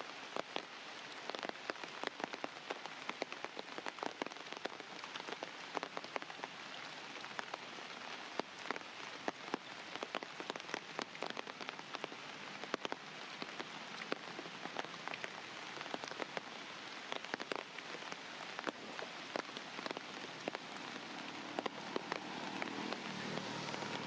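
Steady rain falling, with many separate drops ticking sharply on a nearby surface over the even hiss of the downpour.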